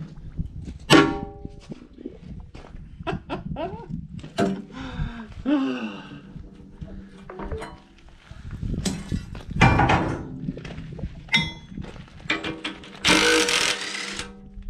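Tools working on steel: a string of irregular metal clanks and knocks, several ringing on after the strike, with a hissing burst of about a second and a half near the end.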